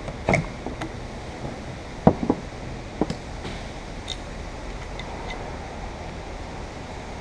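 A few short knocks and clicks from hand tools on the car body and glass, the loudest about two seconds in, over a steady background hiss.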